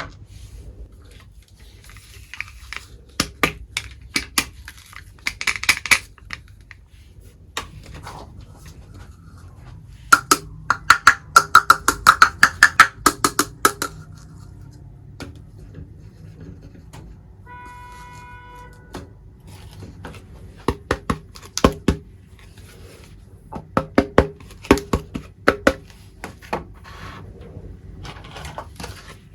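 Small toy kitchen pieces handled up close: irregular clicks, taps and clinks in clusters, with a fast run of clicking in the middle. About two thirds of the way through comes a brief electronic beep lasting about a second.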